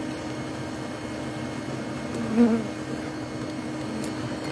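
A mass of honeybees buzzing steadily in a steady drone around an exposed hive. About two and a half seconds in, a person makes a brief vocal sound.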